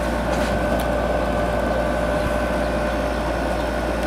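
Window air conditioner running: a steady rush of fan air with a constant hum and two faint, even tones over it.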